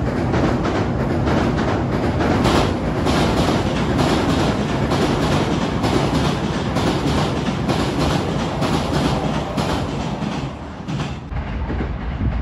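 Hankyu electric train crossing the railway bridge overhead: a steady rumble with repeated clickety-clack of the wheels over the rail joints. About 11 seconds in it cuts to a more distant, lower rumble.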